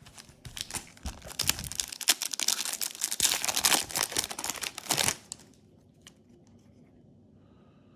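Foil Yu-Gi-Oh booster pack wrapper crinkling and tearing open as it is handled, a dense crackle that stops about five seconds in.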